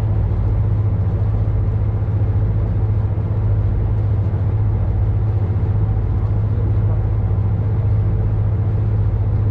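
Boat's engine running steadily: a constant low drone that does not change.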